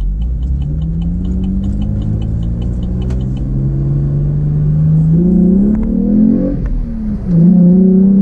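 2014 Camaro's 3.6-litre LFX V6 with NPP dual-mode exhaust accelerating, its note rising steadily in pitch, dropping at a gear change about six and a half seconds in, then pulling up again louder. A steady high ticking runs under it for the first few seconds.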